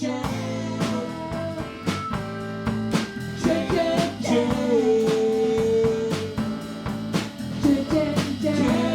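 Live band playing a song: a singer's vocal line over guitar and drum kit, with one long held sung note near the middle.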